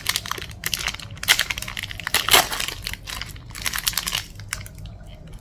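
Plastic packaging crinkling and crackling as it is handled and opened, loudest in a couple of sharp crackles in the middle and thinning out near the end.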